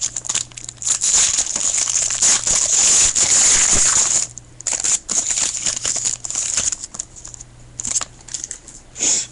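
Foil wrapper of a baseball trading-card pack crinkling as it is handled and torn open. The crinkling is dense for about the first four seconds, then gives way to sparser rustles and clicks, with a short louder burst near the end.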